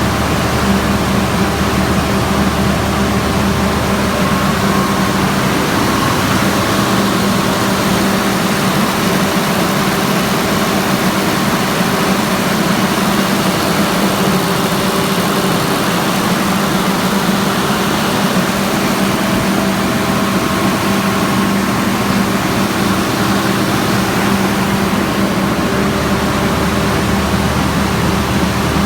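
Chongqing Googol 286 kW natural gas engine running steadily at its governed speed, a loud, even engine noise with a constant hum.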